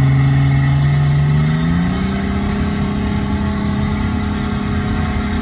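Off-road truck engine revving, its pitch rising about a second and a half in and then holding at higher revs, as the rig spins its tires on the rock to heat them up.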